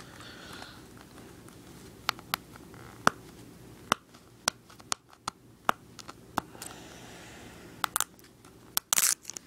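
Fingernails picking and scratching at the plastic seal on top of a Blu-ray case: scattered small clicks and scratches, with a short spell of crinkling near the end.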